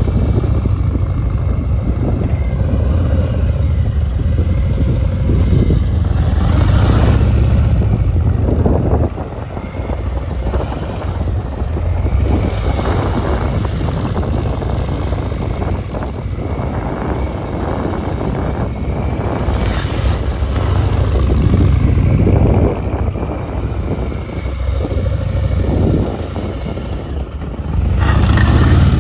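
Motorcycle engine running at low speed for slow, tight cone-pattern manoeuvring, the throttle rising and falling several times, with a dip about a third of the way in and a swell near the end.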